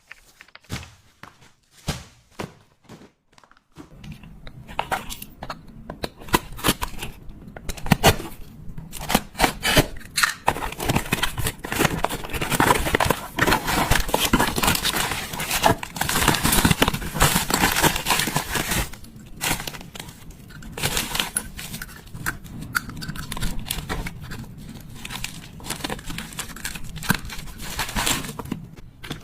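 Packaging being opened and handled: tearing and crinkling of wrapping. A few separate sharp clicks and taps open it, and from about four seconds in it turns into continuous rustling and crinkling that is busiest in the middle.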